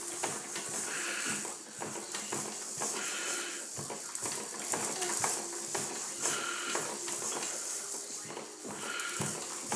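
A Fisher-Price Animal Krackers Jumperoo being bounced in, with irregular clicks and knocks from its frame and a short squeaky sound about every two to three seconds.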